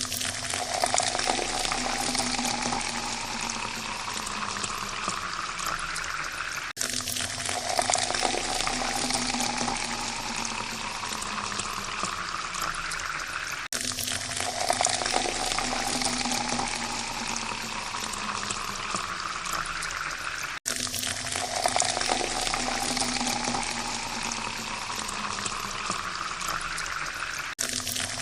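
Water pouring into a glass, the pitch rising steadily as the glass fills. The same pour repeats four times, each cut off by a brief gap roughly every seven seconds.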